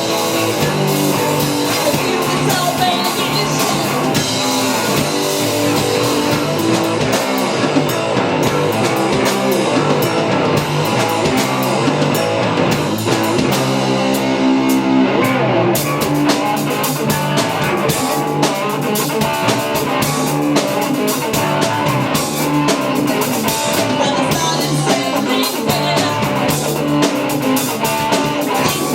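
Live rock band playing, with electric guitar, bass and drum kit, and singing. The drums and cymbals drop out for several seconds about a quarter of the way in, then crash back in near the middle.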